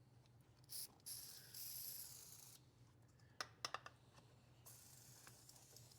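Faint hiss of an aerosol can of penetrating oil sprayed onto a seized seat bolt, lasting about a second and a half, then a quick run of ratchet clicks a little past the middle as a wrench works the tight bolt.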